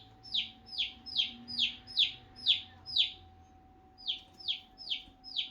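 Domestic feeder chick peeping: a steady run of short, high calls, each falling in pitch, about two a second, breaking off for about a second midway and then resuming. A faint steady hum sits underneath.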